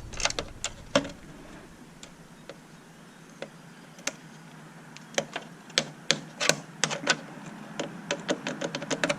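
Irregular sharp clicks and light taps of small parts and hand tools being handled while electronic equipment is taken apart, bunched in a flurry at the start and again in the second half.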